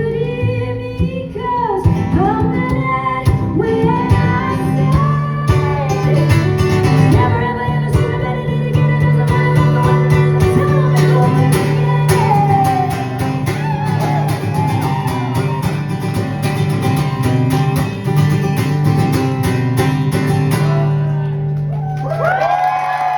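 Live band music: a woman singing over guitar, bass and drums, the band stopping near the end.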